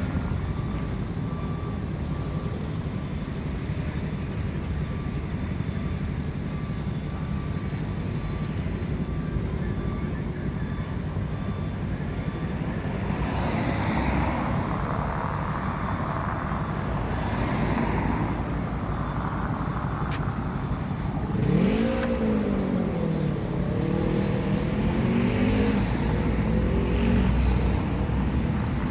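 Road traffic: a steady low engine rumble with vehicles passing, and from about two-thirds of the way through an engine whose pitch rises and falls as it revs.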